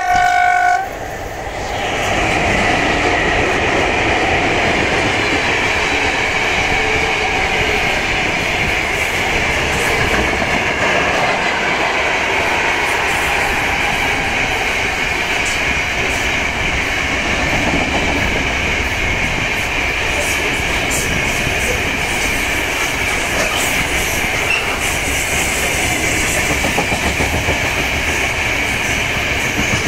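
A VL11 electric locomotive gives one short horn blast, then its freight train rolls past. The steady rumble and rattle of open gondola wagons' wheels runs on over the rails, and the clickety-clack beats fast and regular near the end.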